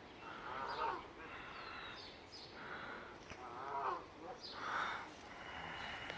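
Canada goose honking about six times at irregular intervals: the resident goose calling in protest at another goose family nearby.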